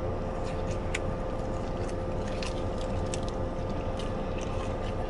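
Steady mechanical hum inside a car cabin, with a man chewing a mouthful of burger: scattered small wet clicks from his mouth over the hum.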